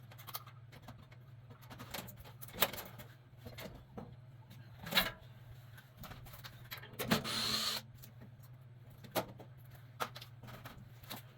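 Scattered clicks and knocks of hand tools and sheet-metal parts as a replacement furnace blower motor is fitted, with a short rasping burst about seven seconds in, over a steady low hum.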